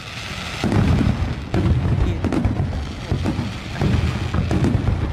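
Aerial firework shells launching and bursting in quick succession: a brief hiss at the start, then a steady run of deep booms and crackle.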